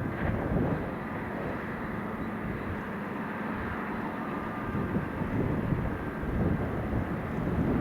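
Massey Ferguson tractor engine running steadily while pulling a muck spreader.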